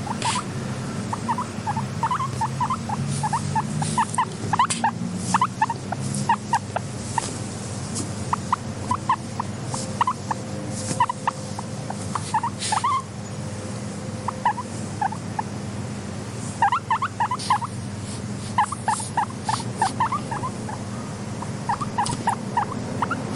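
Guinea pigs making runs of short squeaky calls, several a second, broken by pauses, over a low steady hum.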